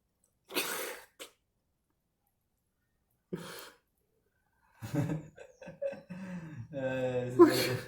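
A person's breathy, cough-like bursts: one sharp exhalation about half a second in and another a little past three seconds. From about five seconds in come indistinct voice sounds, ending in a drawn-out voiced sound.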